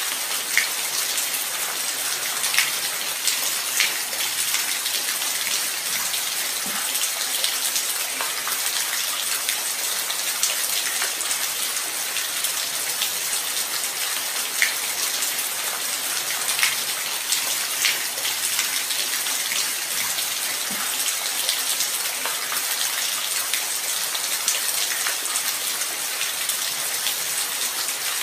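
Light rain falling steadily, an even hiss with scattered sharper drop hits every second or two.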